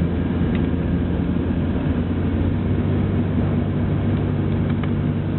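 Car cabin noise while driving slowly in snow: a steady low rumble of engine and tyres heard from inside the car.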